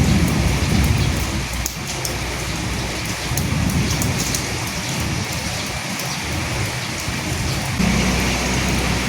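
Steady rain falling, with individual drops ticking and pattering on a surface. A low rumble sits under the rain in the first second or so, and a steady low rumble comes in suddenly near the end.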